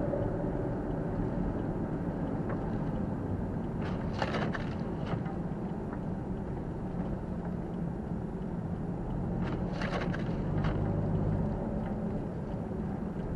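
Car driving on a snow-covered road, heard from a dashcam inside: a steady low engine and road rumble, with a few short hissing streaks about four seconds in and again near ten seconds.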